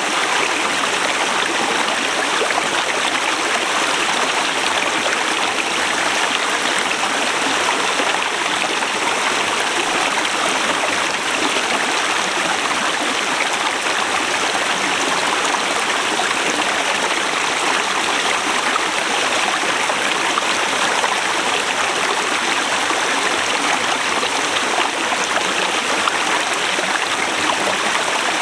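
Forest river running over rocks, a steady, even rush of flowing water.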